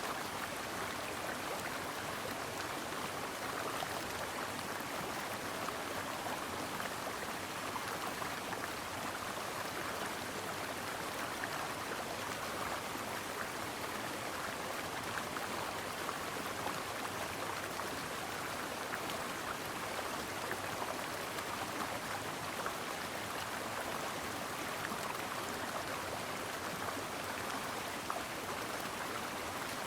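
Brook flowing steadily: an even rush of water with a fine spatter of small splashes.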